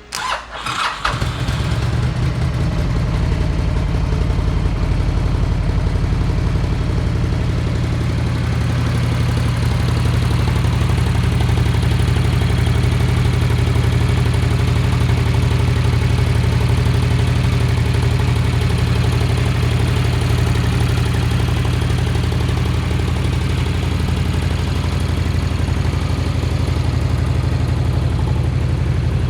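Honda VTX1300 S V-twin motorcycle engine being started on the electric starter and catching within about a second, then idling steadily.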